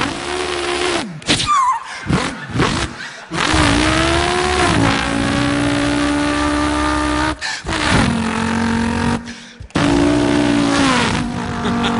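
A man imitating a car engine with his voice: revs that rise and fall, a long steady held note in the middle, broken by short pauses for breath.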